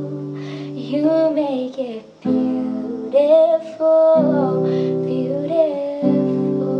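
Acoustic guitar strummed under a woman singing a slow melody, with a brief break in the chord about two seconds in.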